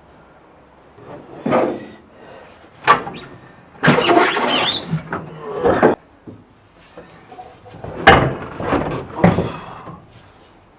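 A car fuel tank being handled and shifted into place: a series of knocks and bangs, with a long scraping, squealing stretch about four seconds in and another cluster of knocks near the end.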